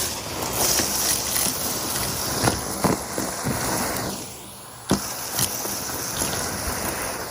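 Henry vacuum cleaner running and sucking up debris, with scattered clicks and rattles as bits of crunchy muck are drawn up the hose.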